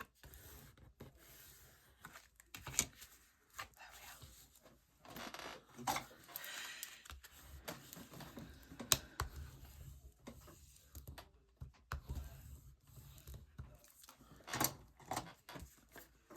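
Paper and card being handled and folded against a ruler on a craft table: scattered light taps and clicks, the loudest about 3 and 9 seconds in, with short rustling and scraping between them.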